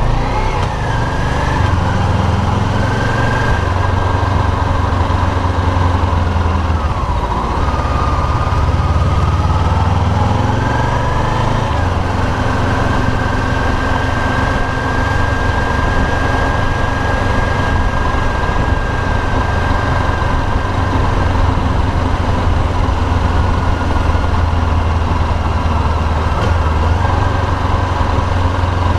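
An engine runs steadily under way, with a deep drone and a whine that glides up and down in pitch, over a steady rush of wind or water noise.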